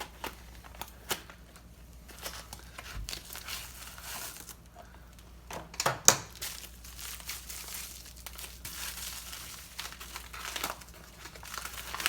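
Parts packaging being unwrapped by hand: crinkling and tearing of wrapping, with scattered handling clicks and the loudest rustle about six seconds in.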